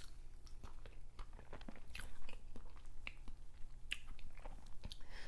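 A person chewing food close to the microphone, with scattered wet mouth clicks and smacks.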